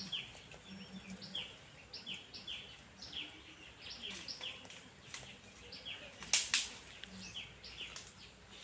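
Small birds chirping over and over in short falling notes, about two a second. Two sharp clicks sound close together about two-thirds of the way through.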